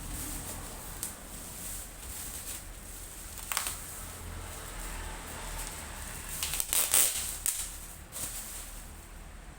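Packaging being handled during an unboxing: short rustling and crinkling with small clicks, loudest about three and a half seconds in and again around seven seconds in, over a low steady hum.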